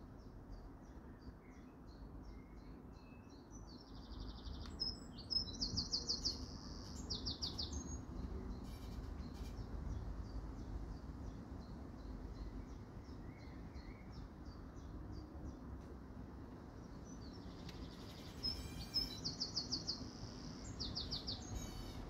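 A songbird singing: two loud phrases of rapid repeated trilled notes, one about five seconds in and one near the end, with softer short chirps between. A steady low background rumble runs underneath.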